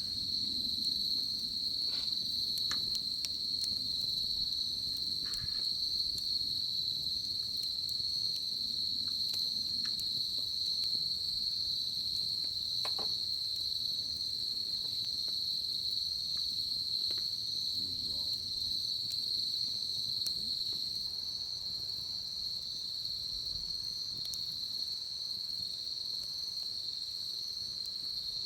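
Insects calling in one steady, unbroken high trill, with a few faint sharp crackles from a wood fire scattered through.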